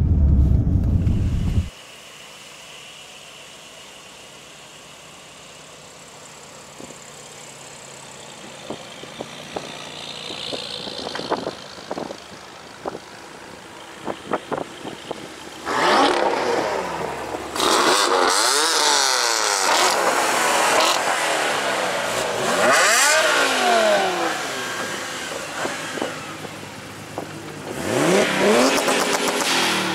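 Loud car engine sound that cuts off abruptly about two seconds in. After a quieter stretch with scattered clicks, from about halfway cars are heard revving and accelerating past, their engine pitch sweeping up and down, with another rising rev near the end.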